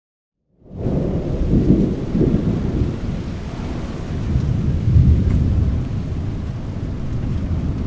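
Thunder rumbling: a deep, rolling rumble fades in about half a second in, swells twice and then rolls on steadily over a hiss of rain.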